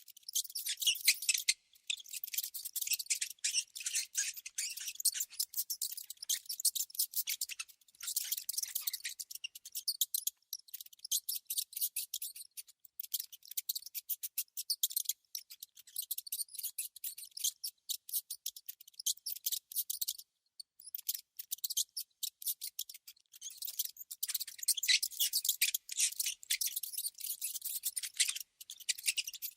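Rodent sounds from mice or rats: rapid, high-pitched clicking and squeaking, coming in runs separated by brief pauses.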